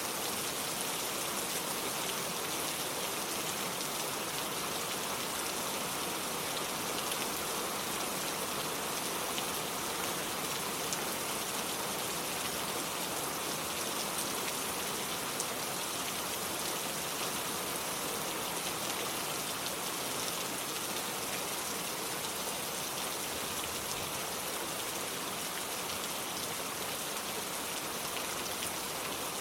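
Steady rain falling on a lake surface and a wooden porch, a dense even patter of drops.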